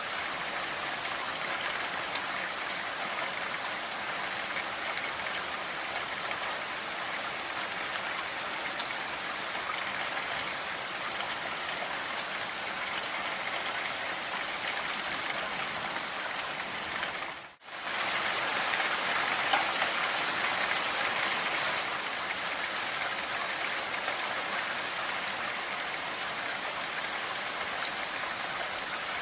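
Steady, even rainfall. About two-thirds of the way through it dips out for a moment and comes back slightly louder, like a splice between two rain recordings.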